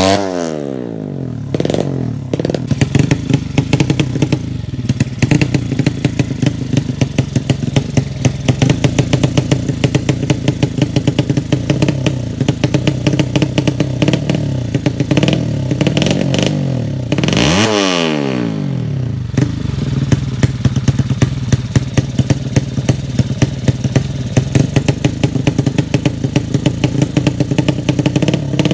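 Drag-race motorcycle engine (200cc class) idling with loud, rapid, uneven popping firing pulses. Its revs fall back to idle at the start, and there is one quick blip of the throttle up and back down about seventeen seconds in.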